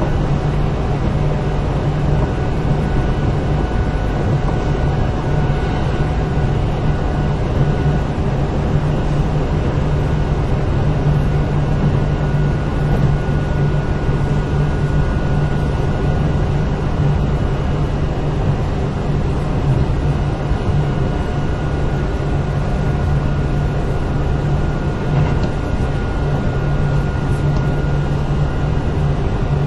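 Kintetsu 8000 series electric train running steadily, heard inside the passenger car: an even, continuous rumble of wheels on rail and running gear, with a faint steady high tone over it.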